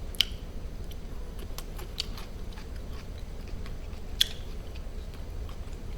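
A person chewing and biting food, with scattered soft mouth and utensil clicks and two sharper clicks, one just after the start and one about four seconds in, over a steady low hum.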